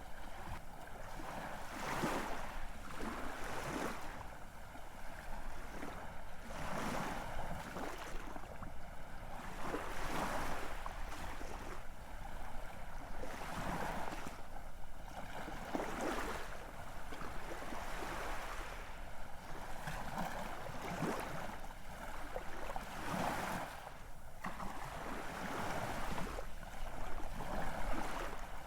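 Ocean waves rushing and washing in, a steady surf noise that swells and recedes every few seconds.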